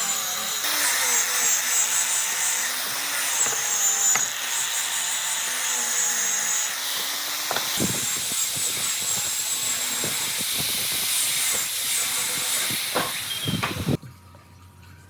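A workshop tool hissing steadily, with a faint wavering hum beneath. In the second half there is a run of sharp knocks and taps, and it all cuts off abruptly near the end.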